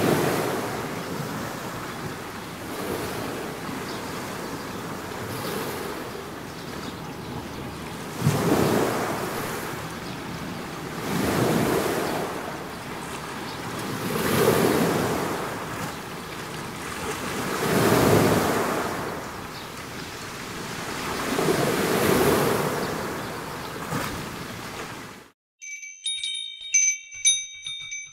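Ocean surf washing in, rising and falling in slow surges every three to four seconds. It cuts off suddenly about three seconds before the end, and wind chimes start ringing.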